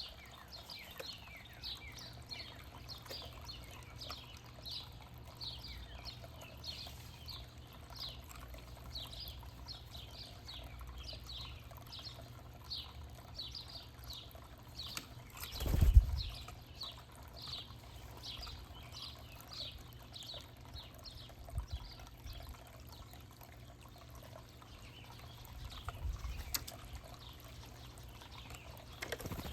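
Small songbirds chirping in quick, repeated short falling notes, several a second, thinning out past the middle, over a steady low hum. A dull thump sounds about halfway through, louder than the birds.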